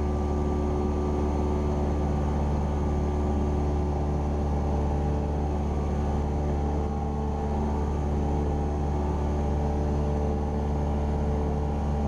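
Cessna 172R Skyhawk's four-cylinder Lycoming piston engine and propeller droning steadily in flight, heard from inside the cockpit.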